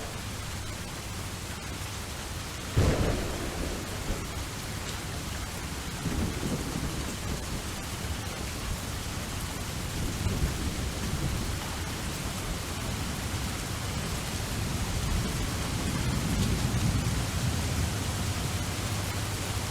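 Steady rain with thunder: a sudden sharp clap about three seconds in, then low rolling rumbles, the longest swelling near the end.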